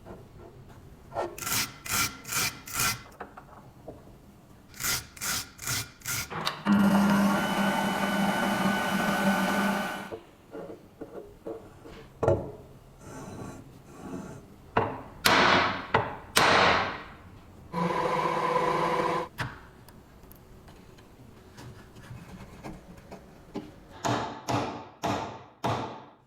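Workshop hand-tool work with rasping strokes in quick groups of about four, like filing or sanding. It is broken by a steady rough stretch of about three seconds and a shorter one later on.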